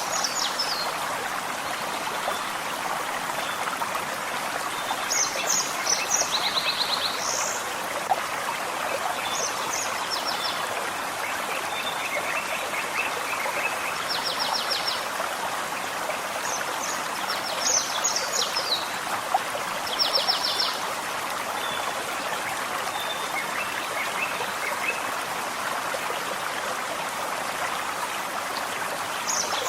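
Small forest stream running steadily over stones, a constant babbling rush. A songbird sings short, high trilled phrases every few seconds above the water.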